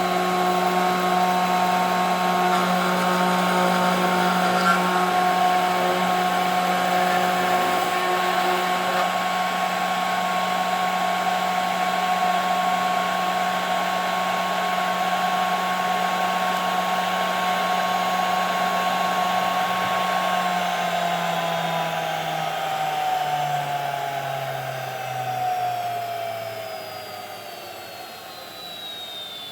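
CNC router spindle running at a steady pitch, then spinning down: about two-thirds of the way through, its whine falls steadily in pitch and fades as the spindle slows.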